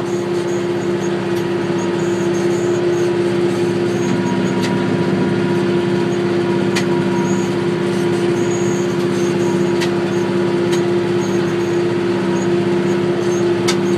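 McCormick GX50 utility tractor's diesel engine running steadily under load while it drives a 5-foot rotary brush hog, heard from inside the cab. A few sharp ticks sound over the even hum.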